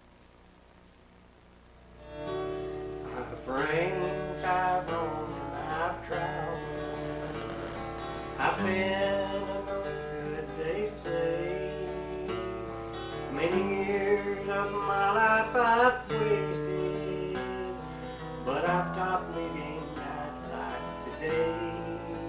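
Acoustic guitar and dobro playing the instrumental intro to a country song, the dobro sliding up into many of its notes. The playing starts about two seconds in, after near silence.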